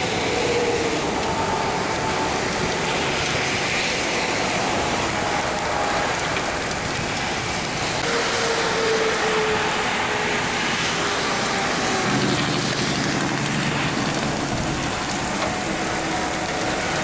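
Heavy rain pouring steadily, with a tornado warning siren wailing faintly in the background, its tone sliding slowly up and down. About twelve seconds in, a low vehicle engine rumble joins in.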